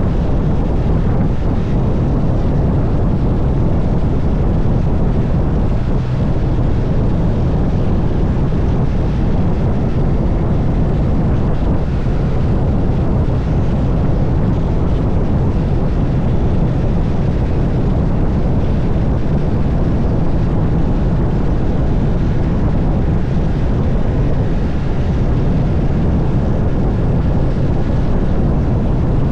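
Motorcycle riding at a steady speed: a steady engine drone under heavy wind noise on the microphone.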